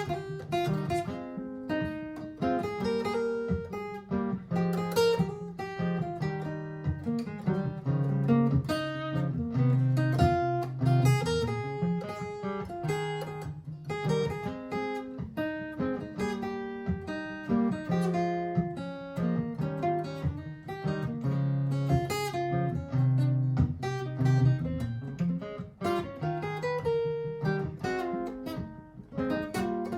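Martin GPCPA4 acoustic guitar playing an improvisation over a looped guitar part from a looper pedal: a constant run of plucked notes and strums over repeating low notes.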